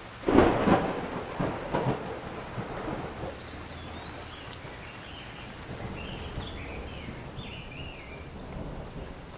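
Thunder over steady rain: a sharp clap a moment in, crackling and rumbling for about three seconds before fading. A bird chirps repeatedly through the middle.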